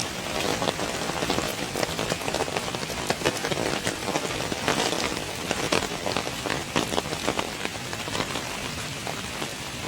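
Heavy rain falling, with a dense, uneven patter of individual drops striking close by.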